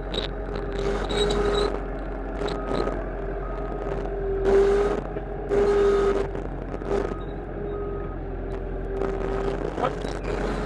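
Frontier OS31 portable bandsaw mill running with its engine at a steady pitch while the blade cuts a red oak log, with several louder, rougher surges along the way.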